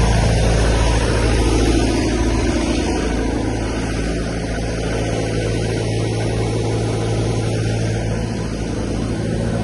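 Fire truck engine running steadily, a continuous low drone with no change in pitch.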